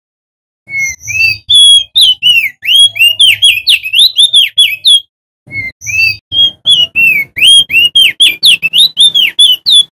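Male opior jambul (crested white-eye) singing loudly in two fast runs of quick, sliding whistled notes, several per second, with a half-second break between them.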